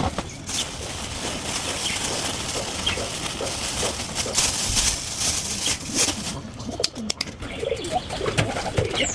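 Domestic pigeons cooing, with wing flaps, over a steady hiss and scattered clicks.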